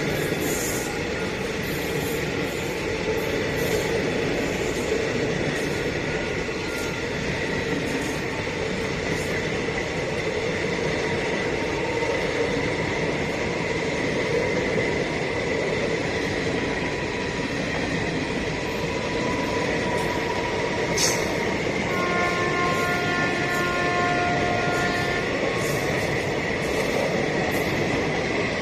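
Passenger train coaches rolling steadily past on the rails, a continuous rumble of wheels on track. Late on, a horn sounds for about three seconds.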